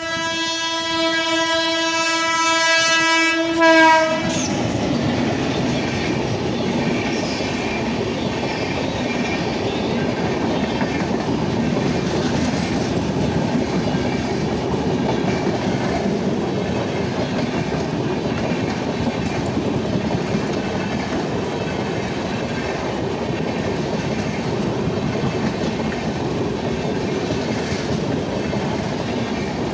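A train horn sounds one long steady blast for about four seconds, with a louder burst as it ends. Then Humsafar Express passenger coaches roll slowly past close by, their wheels clacking steadily over the rail joints.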